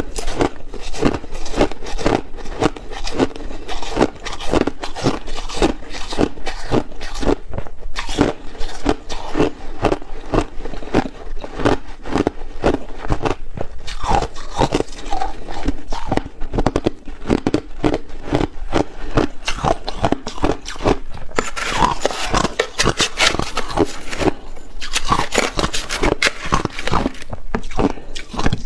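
Ice being chewed and crunched in a person's mouth, in quick, continuous crunches, with two louder, denser stretches of crunching about three quarters of the way through.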